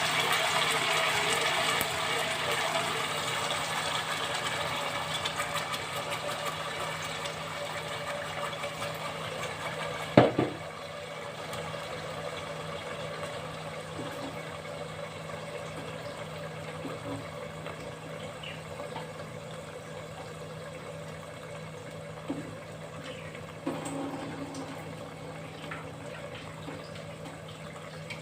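Ground onion, chilli, garlic and lemongrass paste sizzling in hot oil, loud at first and slowly dying down. A sharp clank about ten seconds in and a couple of lighter knocks later.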